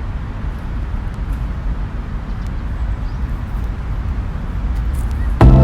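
Steady low outdoor rumble with a few faint clicks. Background music with a beat cuts in loudly near the end.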